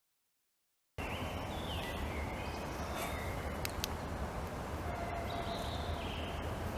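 Outdoor ambience starting about a second in: a steady rumbling hiss like wind on the microphone, with a few short chirps that sound like birds and a couple of faint clicks.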